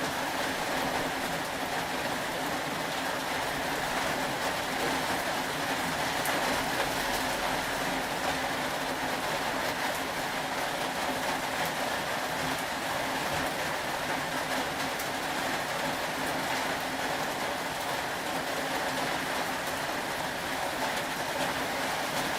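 Steady rain falling, an even hiss without pause, with a few faint scattered drop ticks.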